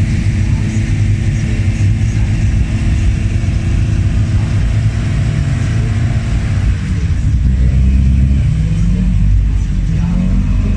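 Opel race cars' engines idling loud and rough at low speed, with the pitch rising and falling in throttle blips from about seven seconds in.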